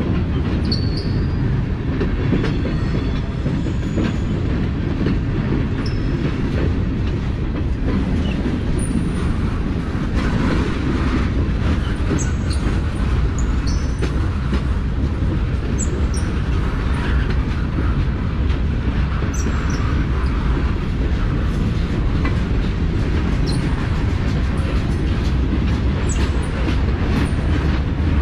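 Freight cars of a passing train rolling by close at trackside: a steady, loud rumble of steel wheels on rail with clicks over the rail joints, and brief high wheel squeals now and then.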